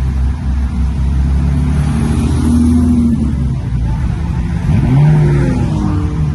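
1966 Batmobile's engine pulling hard under acceleration, its note held steady and then dipping and climbing again about four to five seconds in, like a gear change.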